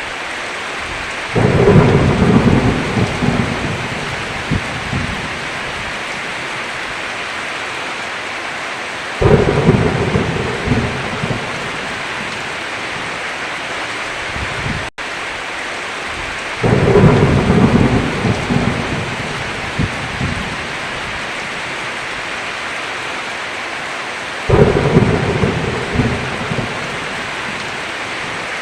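Steady heavy rain with rolls of thunder. Four low rumbles break in suddenly about every eight seconds and each fades out over a few seconds.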